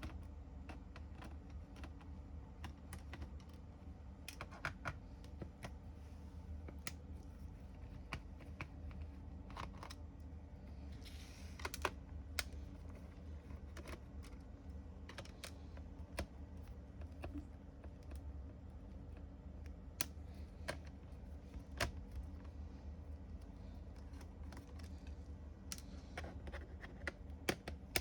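Irregular light clicks and taps from an HP Pavilion 15 laptop being worked on by hand, over a steady low hum.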